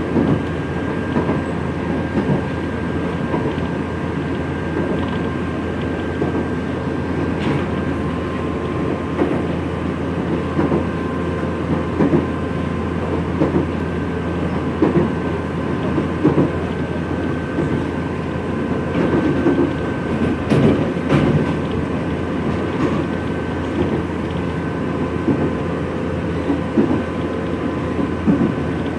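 Nankai 3000 series electric train running, heard from inside the car: a steady rumble of wheels on rail, with irregular rail-joint clacks and two faint steady high tones over it.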